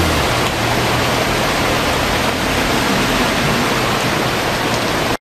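Heavy rain pouring steadily, with cars driving through flood water on the road. The hiss cuts off abruptly near the end.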